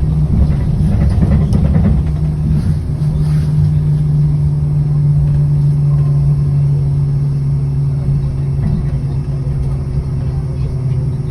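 City bus's engine running with a steady, low hum and rumble at a constant pitch. There is a brief noisier stretch about a second in.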